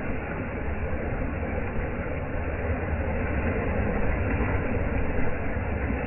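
Beach surf as a steady low rumbling wash of noise with no distinct breaks or splashes.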